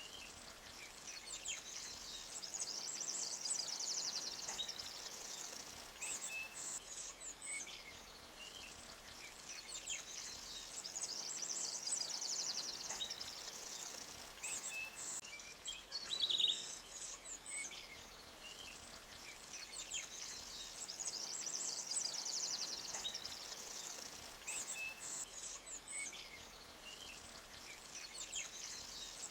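Forest ambience: birds chirping over a high trilling chorus that swells and fades about every nine or ten seconds.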